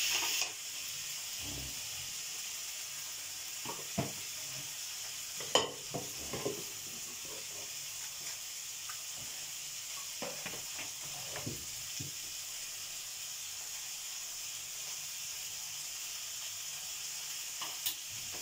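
Vegetables and masala sizzling steadily in a wok over a gas flame, with a few short light knocks and clicks scattered through.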